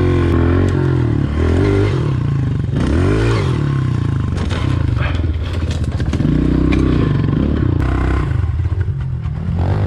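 Small dirt bike engine being ridden hard round a dirt track, revving up and dropping back again and again as the throttle is opened and shut.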